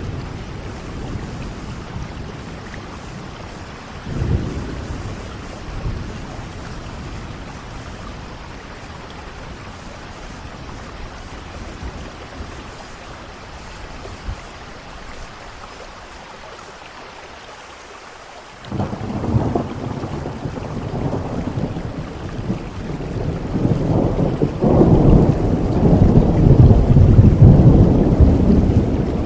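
Steady rain with rolling thunder. A thunderclap breaks in suddenly about two-thirds of the way through, and a long, louder rumble builds near the end.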